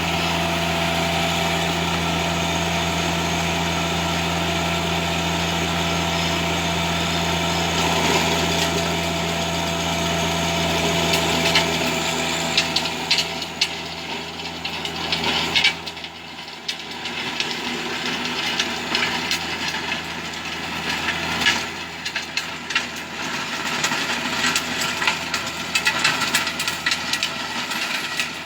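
Tractor engine running steadily while tilling hard ground. About halfway through the engine sound drops a little and irregular knocks and rattles come through over it.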